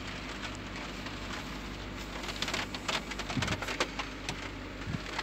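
Heavy rain falling on a car's roof and windscreen, heard from inside the cabin: a steady patter with many sharper individual drop strikes, thickest around the middle, over a steady low hum from the car's running engine.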